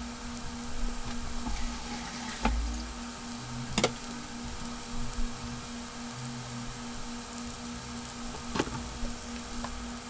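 Breaded fish fillets frying in hot oil in a nonstick skillet: a steady fine sizzle and crackle, with a few sharper pops. A faint steady low hum runs underneath.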